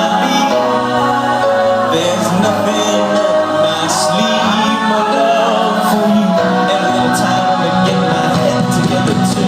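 Live pop-rock band playing in a concert hall, with singing over the band.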